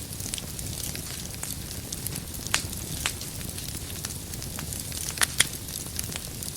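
Wood fire burning in a fireplace: a steady low hiss of flames with scattered sharp crackles and pops of burning firewood, the loudest two close together near the end.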